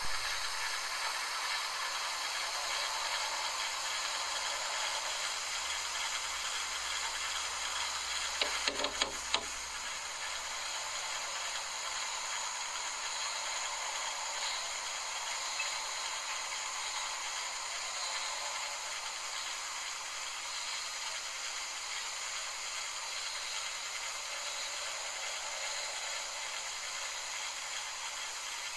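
Steady hiss of background noise, with a short cluster of sharp knocks about eight to nine seconds in.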